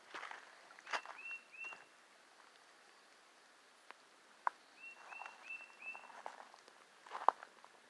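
Short high chirps from a small animal, most likely a bird, coming in quick runs of three or four, twice. Between them come light footsteps or rustling and a few sharp clicks, the loudest click near the end.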